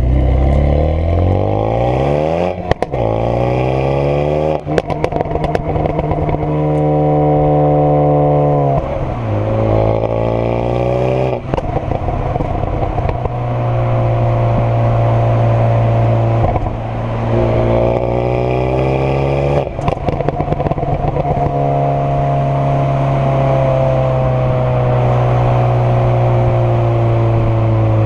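Renault Megane 225 Trophy's turbocharged 2.0-litre four-cylinder engine accelerating through several gears. Its pitch climbs and drops sharply at each shift, with sharp pops and crackles from the de-catted exhaust, which has its middle silencer removed. Near the end it settles into a steady drone that slowly falls in pitch.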